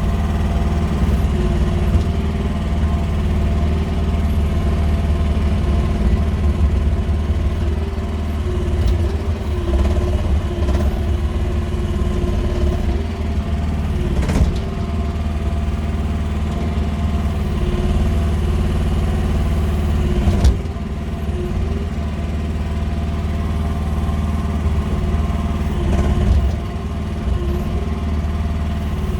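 QH13R mini excavator's engine running steadily under work, its pitch shifting a little, with several clunks along the way.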